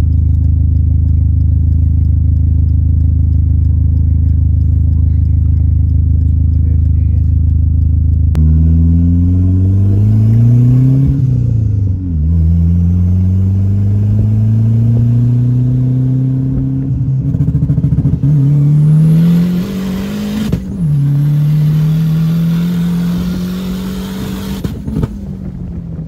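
Dodge SRT-4's turbocharged four-cylinder engine running at a steady note, then about eight seconds in the car pulls away and accelerates hard, the revs climbing and dropping back at each of several gear changes before easing off near the end.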